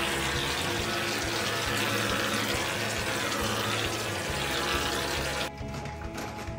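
Water running steadily from a tap, with quiet background music underneath; the water cuts off abruptly about five and a half seconds in.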